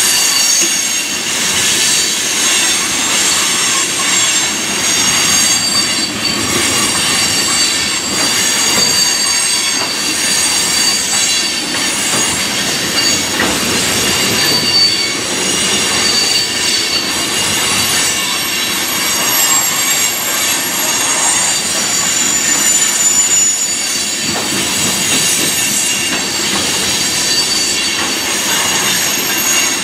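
Freight train of tank cars rolling past, with a steady rolling noise of steel wheels on rail. Several high-pitched squeals from the wheels run over it and shift slightly in pitch as the cars pass.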